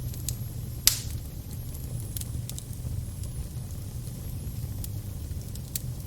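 Fire crackling over a steady low rumble, with scattered sharp pops, one louder snap about a second in.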